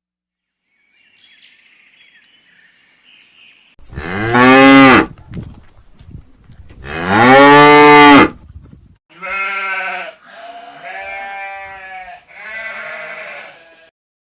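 Cow mooing: two long, loud moos whose pitch rises and falls, followed by four shorter, higher-pitched, quieter calls.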